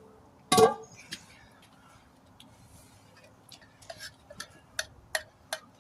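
Metal hammer strikes on a steel wheel rim. One loud ringing clang about half a second in, then a quick run of lighter sharp taps near the end.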